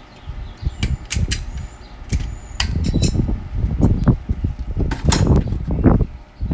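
A farrier's forge or blower running with a low, uneven rumble, broken by several sharp clinks of steel against steel as the horseshoe is handled.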